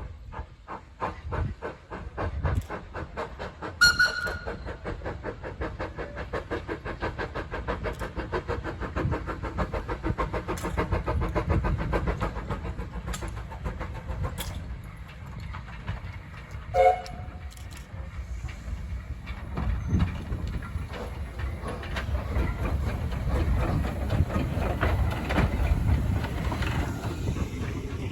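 Steam locomotive pulling away, its exhaust beats quickening steadily, with a short whistle about four seconds in. A second brief whistle note comes around the middle, then a steady rumble of the train running.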